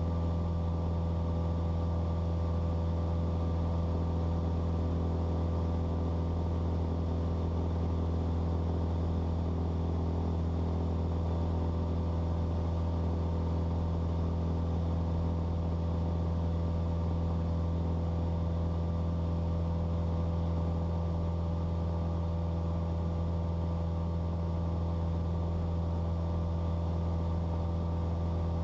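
Cessna 172's four-cylinder piston engine and propeller droning steadily in cruise flight, heard from inside the cabin.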